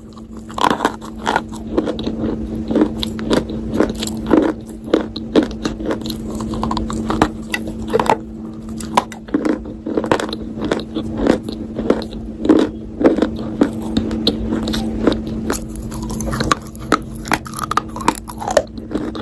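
Close-up crunching bites and chewing of a hard, dry earthy material, many sharp irregular crunches following one another. A steady low hum runs underneath.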